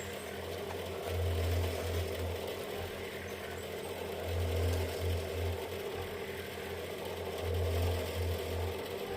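A small engine running steadily, its low hum swelling and easing about every three seconds.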